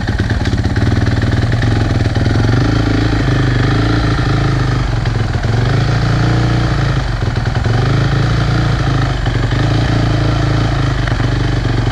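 Honda CRF450 motocross bike's single-cylinder four-stroke engine idling steadily.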